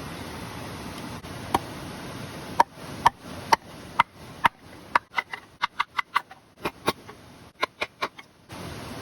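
A series of sharp, hard knocks: one, then a dozen or so coming faster in the middle, over a steady hiss of rain that drops away while they sound and returns near the end.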